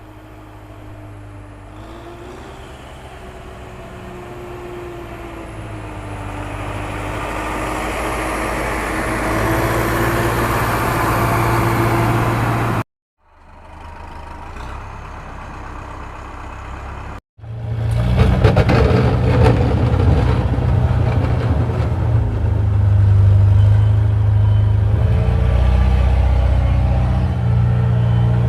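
Vehicle motor running steadily and growing louder, cut off abruptly twice, then running louder with many sharp clicks and rattles.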